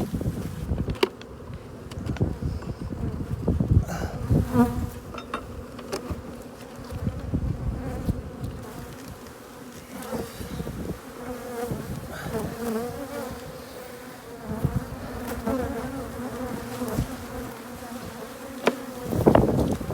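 Honeybees buzzing in a steady, dense hum around an opened hive, with a few short knocks scattered through. The bees are agitated from the hive being worked.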